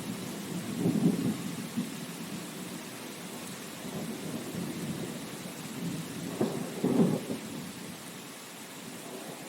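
Steady rain hiss with two low rumbles swelling up, about a second in and again around seven seconds; the rumbles are the loudest part.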